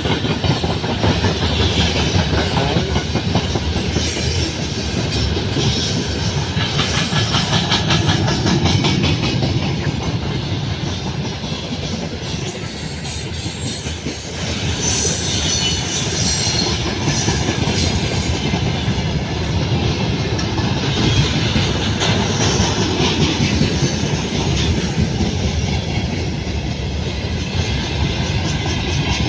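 Freight train wagons rolling past, wheels clicking steadily over the rail joints, with brief high wheel squeals here and there.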